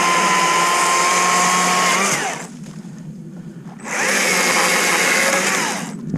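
Stihl MSA 60 C battery chainsaw's electric motor and chain running with a steady high whine, winding down about two seconds in. After a short pause it spins up again, at a higher pitch, for about two seconds before winding down near the end.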